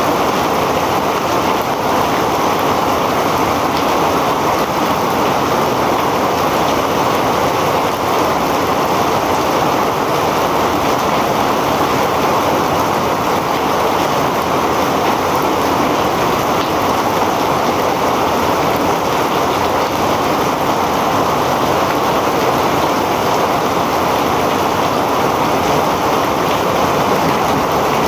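Heavy rain pouring down as a steady, dense hiss that holds even throughout, with no separate drops or impacts standing out.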